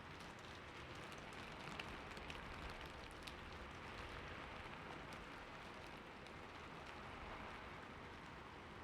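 Heavy rain falling steadily: an even hiss with scattered sharp ticks of individual drops.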